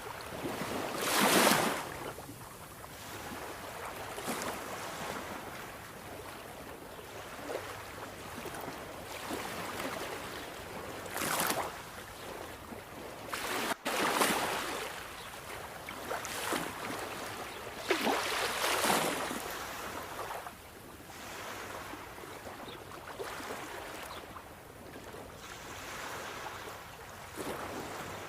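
Sea waves breaking and washing ashore: a steady surf hiss swelling into several louder surges. The biggest come near the start and again about two-thirds of the way through, with a momentary gap in the sound just before the middle.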